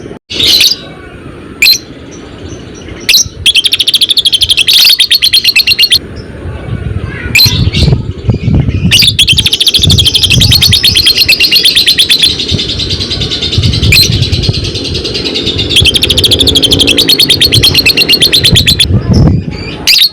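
Lovebird doing its long 'ngekek' song: three runs of very rapid, shrill chattering trills lasting a few seconds each, with single sharp chirps between them.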